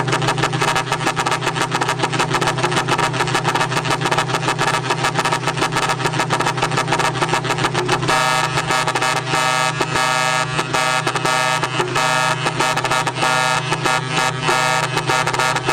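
Electronic bird-chirp horn sounding a fast, repeating chirping tone pattern over a steady low buzz, switching to a different chirp pattern about eight seconds in.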